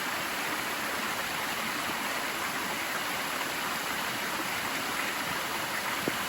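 Steady rush of falling water from a waterfall, an even hiss that starts and stops abruptly.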